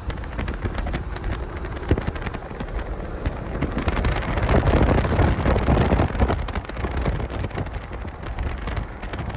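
Strong squall-line wind gusting around the chasers' vehicle and buffeting the microphone. The wind swells to its loudest about halfway through, with scattered sharp ticks throughout.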